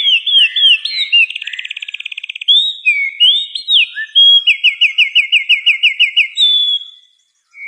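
A songbird singing a long, varied song: a few quick down-slurred whistles, then a fast buzzy trill lasting about a second, more slurred notes, and a run of about ten repeated rising-and-falling notes, ending on a longer note that fades out near the end.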